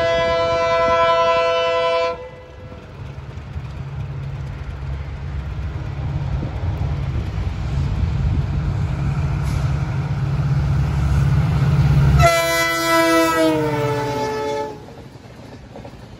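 Locomotive horn of the Sealdah–Bikaner Duronto Express sounding a long steady blast that cuts off about two seconds in, then the low rumble of the train growing louder as it approaches. About twelve seconds in a second horn blast drops in pitch as the locomotive passes, followed by the quieter rolling of the coaches going by.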